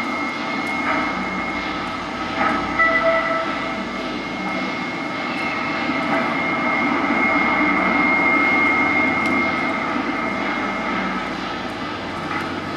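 A train running at speed: a steady running rumble with a steady high whine on top.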